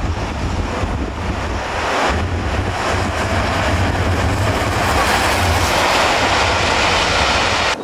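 Wind buffeting the microphone over the steady rumble of a steam-hauled passenger train passing, A1 locomotive 60163 Tornado and its coaches; the noise swells as the coaches go by and cuts off suddenly near the end.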